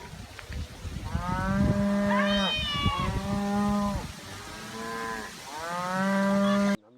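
Cattle mooing: about three long moos in a row, the last cut off abruptly just before the end.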